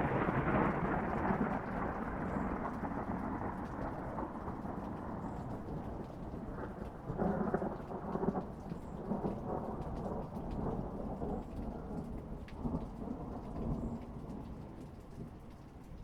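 A long roll of thunder over rain. It is loudest at the start, rumbles on with a few sharper cracks about seven to eight seconds in, and fades near the end.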